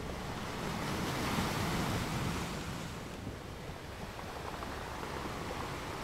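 Ocean surf: waves breaking and washing up the beach as a steady rush, swelling about a second in and easing off again.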